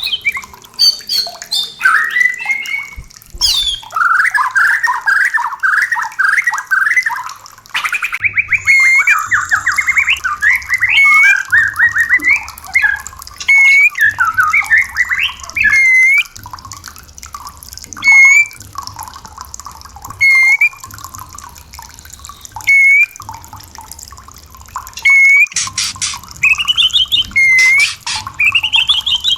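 White-rumped shama (murai batu) calling and singing: quick runs of rising notes, then single sharp upslurred whistles about every two seconds, with faster runs again near the end.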